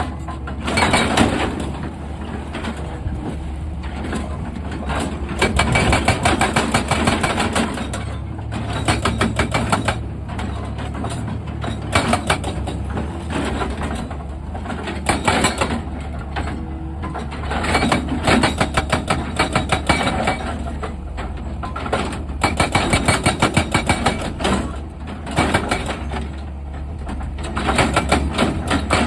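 Excavator's diesel engine running steadily, with repeated bursts of rapid clattering knocks every few seconds.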